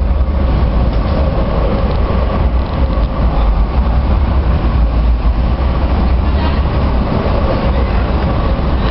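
Train pulling in alongside the platform: a loud, steady rumble with a faint steady whine above it.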